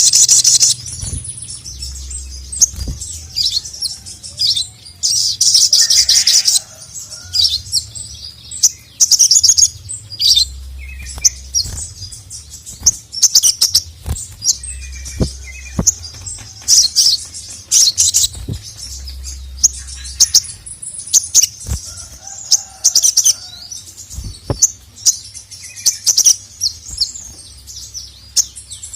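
Little spiderhunter (sogok ontong) singing persistently in repeated short, rapid bursts of high chattering notes every second or two. It is a loud calling song of the kind used to provoke and tutor other sogons.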